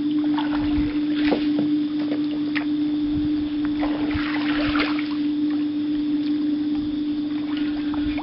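A small boat's motor running with a steady, even hum, with scattered light clicks and knocks on top.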